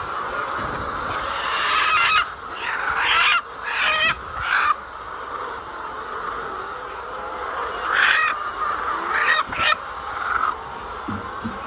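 Chickens calling loudly in short squawks: a cluster of four about two seconds in, and another two or three about eight seconds in. Underneath is a steady background din of the flock.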